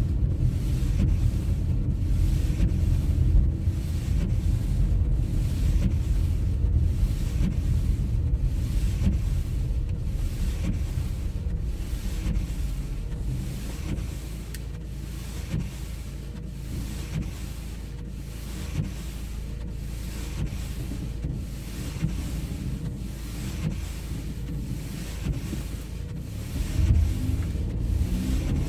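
Low, steady rumble of a car driving on snowy roads: road and wind noise.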